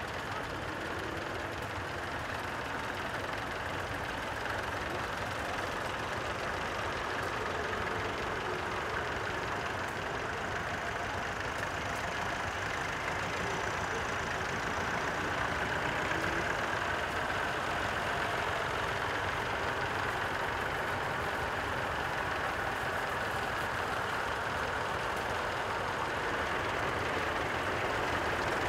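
Vintage tractor engines running, a steady engine noise that grows slightly louder over the stretch.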